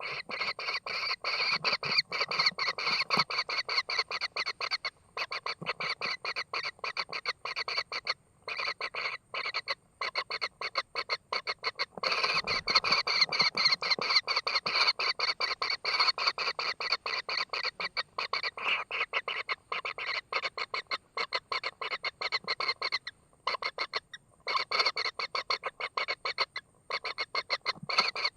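Kingfisher chicks giving a fast, continuous stream of short harsh begging calls, many per second, with a few brief pauses.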